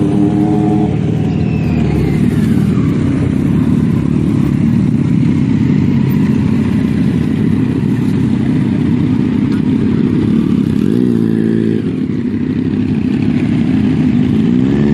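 Motorcycle engine running at riding speed over a steady rush of wind noise. The revs climb briefly about eleven seconds in and again near the end.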